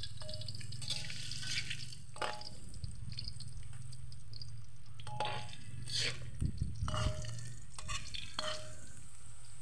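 Tofu frying in hot oil in a metal wok, a steady sizzle, with a metal spatula scraping and clinking against the wok about eight times as the pieces are turned.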